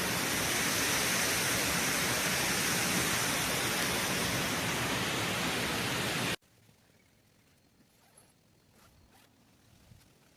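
Water rushing over a dam, a loud steady roar of falling water that cuts off abruptly about six seconds in, leaving near-quiet with a few faint ticks.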